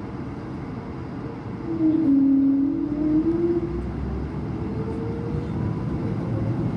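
Airbus A220 cabin noise with a loud, wavering moan that starts about two seconds in, lasts about two seconds and fades into fainter gliding tones: the A220's well-known "whale sounds".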